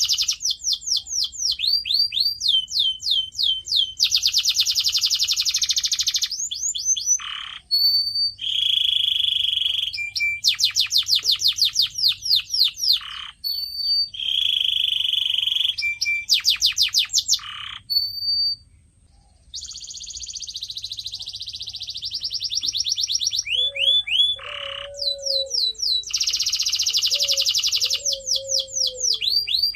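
Canary singing. Fast trills of quickly repeated, downward-sliding notes alternate with buzzing rolls and short single whistles, with a brief pause a little past halfway.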